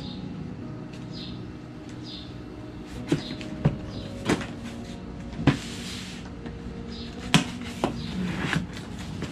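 A cardboard shipping box being handled and opened by hand: scattered knocks and flaps of cardboard starting about three seconds in, with a brief rushing scrape near the middle.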